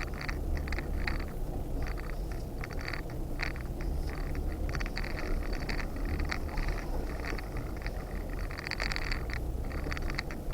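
Off-road vehicle engine running at low speed on a rough trail, a steady low rumble, with frequent short irregular rattles and scrapes from the vehicle working over the terrain.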